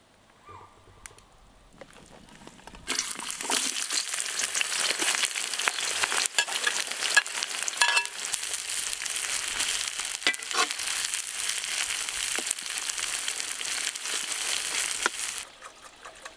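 Food frying in hot oil: a loud sizzling hiss with scattered crackles and pops starts suddenly about three seconds in and drops away shortly before the end.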